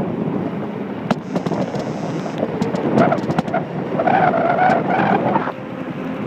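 Wind buffeting the microphone during a fast descent on a Kona Stinky downhill mountain bike, with sharp clicks and rattles from the bike over rough ground. A pitched squeal sounds about three seconds in and lasts about two seconds.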